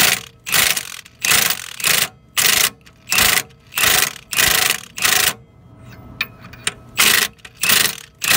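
Hand ratchet wrench clicking in quick back-and-forth strokes, about one and a half a second, as it tightens the center bolt of a harmonic balancer puller on an LS engine's crank pulley. The strokes pause briefly a little past halfway, then resume.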